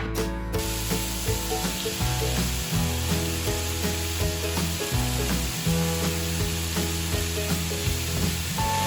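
Fajita chicken and vegetables frying in a hot pan, a steady sizzle that sets in about half a second in, over background music.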